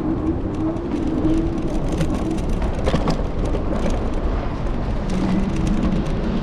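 City street traffic and road noise heard from a handlebar-mounted camera on a moving electric scooter, with wind on the microphone; a low steady hum comes in near the start and again near the end.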